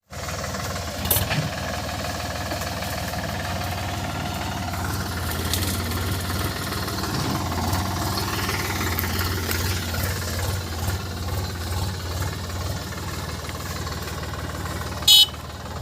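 Sonalika DI 50 RX Sikander tractor's diesel engine running steadily. A brief loud high-pitched sound cuts in near the end.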